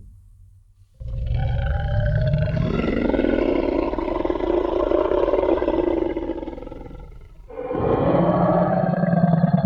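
Designed Tyrannosaurus rex roar sound effect: a long, deep roar starting about a second in and fading out after several seconds, then a second roar starting near the end.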